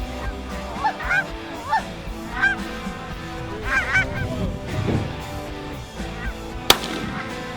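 Geese honking in a run of short, repeated calls, over background music, with one sharp crack near the end.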